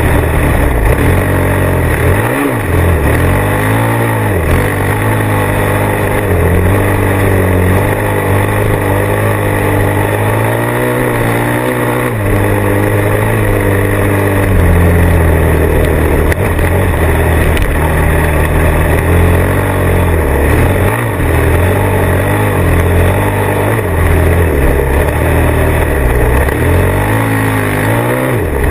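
Motorcycle engine running under way, its pitch repeatedly rising and falling as the throttle is opened and closed, with brief drops in revs a handful of times.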